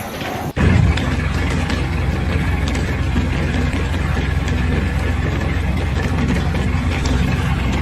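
An engine running steadily at idle, a low, even hum that starts abruptly about half a second in.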